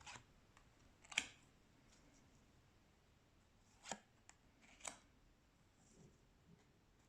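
Oracle cards being handled and flipped through, giving a few short, soft taps and flicks against near silence. The sharpest comes about a second in, and a few more follow around four to five seconds in.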